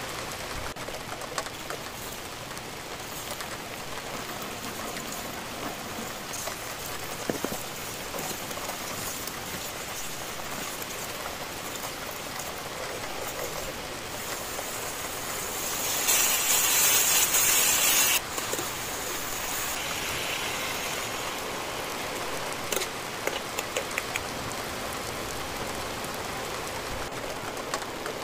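Steady sizzling hiss of onion, garlic and tomato sautéing in oil in a frying pan, flaring up loudly for about two seconds midway. A few short clicks come near the end.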